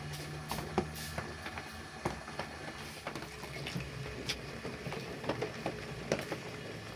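Scattered light clicks and knocks, a few every second, over a steady hiss and a low hum.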